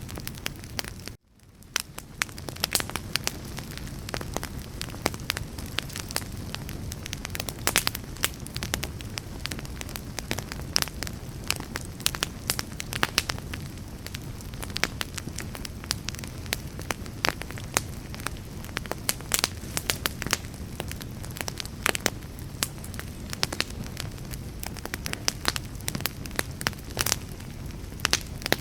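Wood fire burning with dense, irregular crackles and pops over a low steady rumble of flames. The sound cuts out abruptly about a second in and fades back in within a second.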